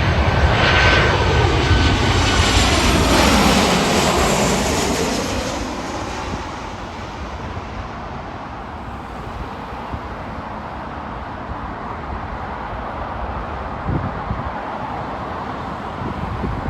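Jet airliner passing close, its engine whine gliding down in pitch as it goes by over the first few seconds, then fading to a steady distant rumble. There are two light knocks near the end.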